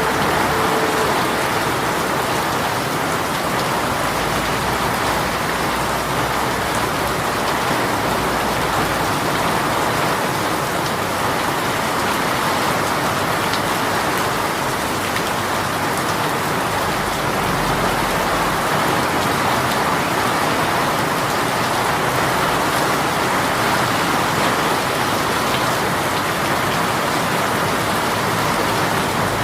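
A rain shower falling steadily, an even unbroken hiss of rain on surfaces.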